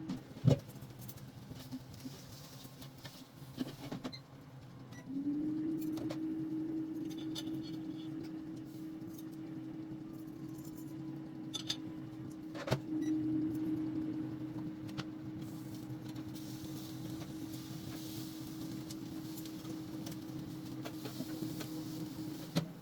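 A few sharp clicks, then an electric kitchen appliance's motor starts about five seconds in. Its hum rises briefly in pitch as it spins up, then runs steadily while the appliance cooks.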